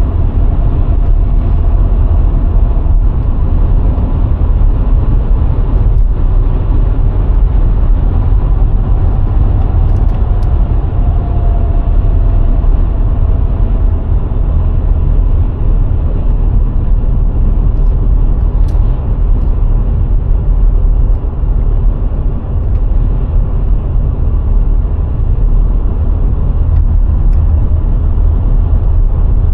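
Car driving along the road: a steady, loud low rumble of tyre and wind noise, with the VW Golf IV's 1.6-litre four-cylinder petrol engine running underneath.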